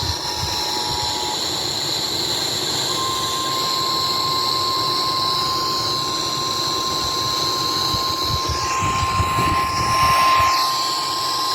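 Emergency Alert System attention tones over a steady rushing noise. The two-tone alert signal cuts off about a second in. After a short gap a single steady alarm tone, the weather-radio 1050 Hz warning tone, sounds for about nine seconds.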